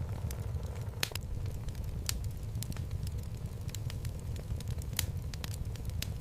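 Wood logs burning in a home fireplace: a steady low rumble of the flames with irregular sharp crackles and pops, a few louder pops about one, two and five seconds in.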